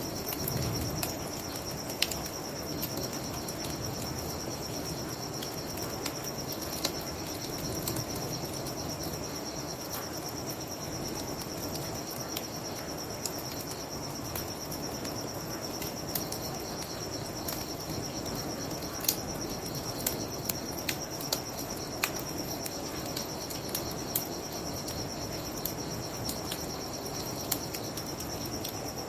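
Crickets chirping steadily while a bonfire crackles, with sharp pops scattered throughout, the loudest about two seconds in and again near the middle, over a steady low rushing.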